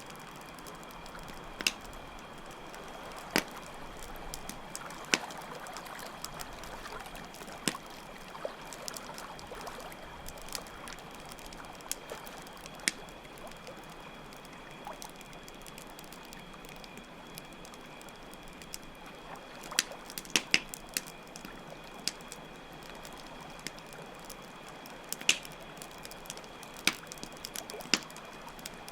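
Campfire crackling, with scattered sharp pops, several bunched together about two-thirds of the way in. Beneath it run a steady wash of flowing water and a constant high trill of crickets.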